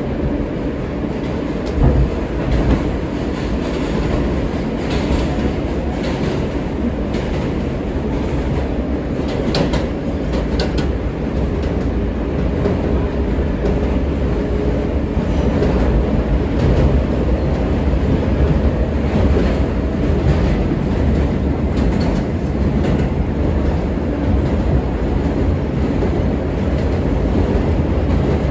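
R143 subway train running between stations: a steady rumble from the wheels and motors with scattered clicks from the rail joints. It grows somewhat louder from about halfway through.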